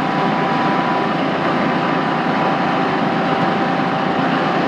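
Machinery running steadily: a constant even hum with two steady whining tones over it.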